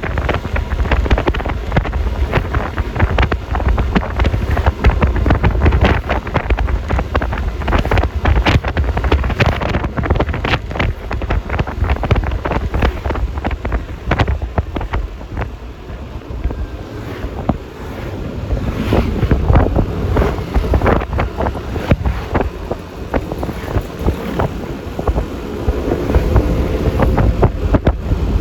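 Wind rushing and buffeting over the microphone of a scooter riding along a highway, with a heavy low rumble and road noise. A faint rising engine tone comes in about two-thirds of the way through.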